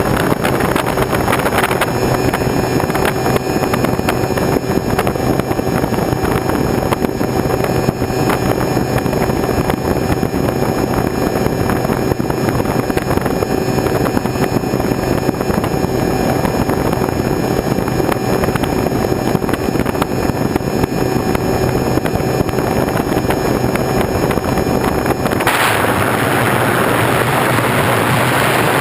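A motor running steadily with a constant hum, heavily buffeted by wind noise on the microphone. The hum stops about 25 seconds in, leaving rushing wind noise.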